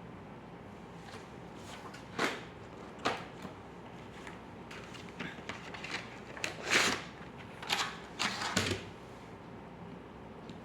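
Pen strokes on paper: a series of short, irregularly spaced scratches, the longest and loudest about seven seconds in.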